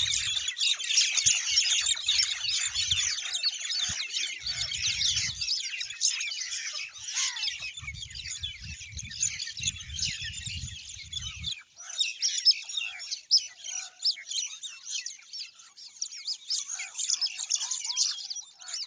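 A flock of small birds chirping together in a dense, continuous chorus of high, quick chirps, thinning briefly about halfway through. A low rumble comes and goes underneath in the first half.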